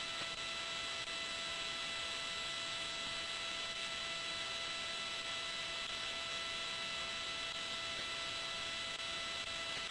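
Steady hiss with a constant electrical hum of several fixed tones: line noise on the launch-commentary audio feed between callouts.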